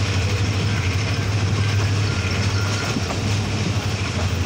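Diesel-hauled passenger train accelerating, heard from an open coach window: a steady low engine drone over the noise of wheels on rails and rushing air.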